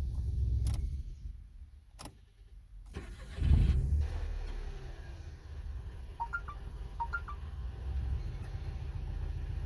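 Smart Forfour W454's 1.1 three-cylinder petrol engine (code 134.910) running, falling quiet for a moment, then starting up with a loud surge about three and a half seconds in and settling into a steady idle.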